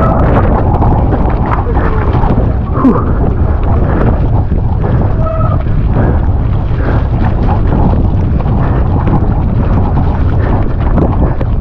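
Strong wind buffeting the microphone of a mountain biker's action camera in heavy, steady rumbling gusts, with the bike clattering and its tyres knocking over wet, rocky ground in frequent sharp clicks. A brief squeal comes about five seconds in.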